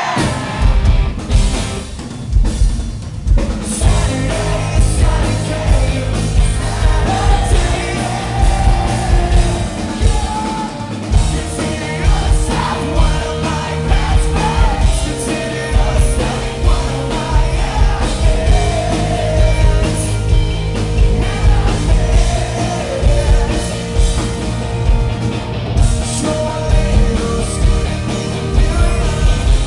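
Rock band playing live at full volume, with a singer over electric guitars, bass and a pounding drum kit. The band drops out briefly about two seconds in and again around ten seconds in, then crashes back in.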